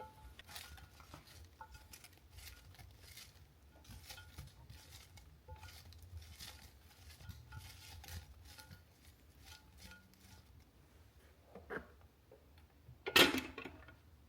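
Dishes and kitchen utensils being handled: scattered small clinks and taps, with one louder clatter near the end.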